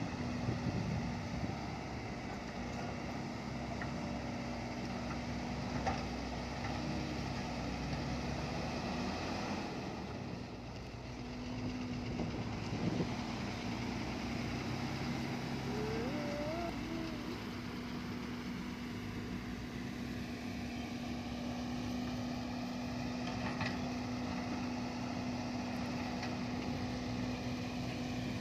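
Motor vehicle engine running steadily, with a constant low hum, likely from a dump truck.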